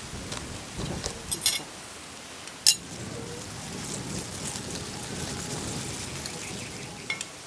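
Cutlery and dishes clinking sharply a few times, over a steady background hiss.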